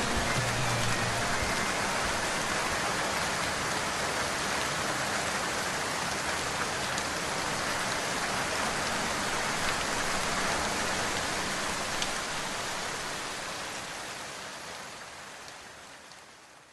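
Steady rain falling, an even hiss with a few faint drop ticks, fading out over the last four or five seconds.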